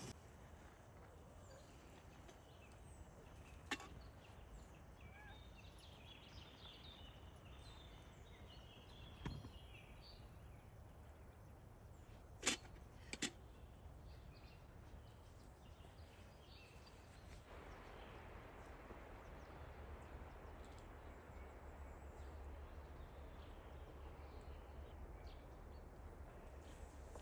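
Quiet outdoor ambience with faint bird chirps and a few sharp clicks, the loudest a close pair just past the middle. A soft rushing noise grows in about two-thirds of the way through.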